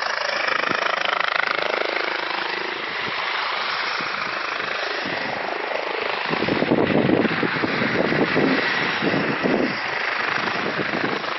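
Helicopter running, a continuous rush of engine and rotor noise that grows louder and rougher about six seconds in.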